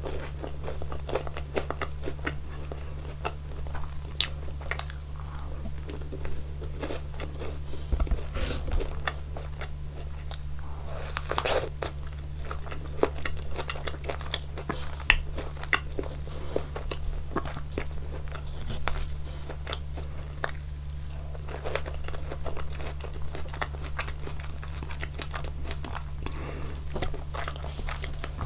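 Close-miked biting and chewing of a waffle topped with strawberries and whipped cream: irregular crunches and chewing sounds go on throughout, with a steady low hum underneath.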